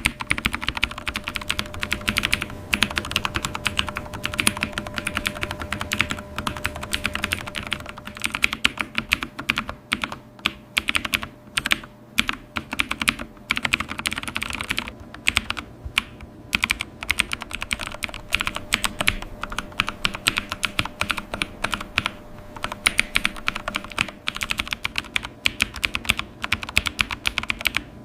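Typing on a computer keyboard: a fast, irregular run of key clicks, with a few short pauses about ten to sixteen seconds in.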